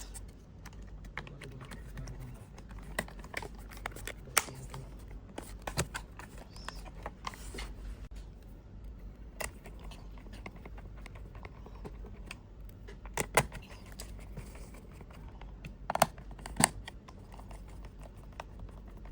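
Scattered small clicks and taps of hard plastic parts being handled and fitted while a gaming headset is worked on, with a few sharper clicks about four seconds in and between thirteen and seventeen seconds in.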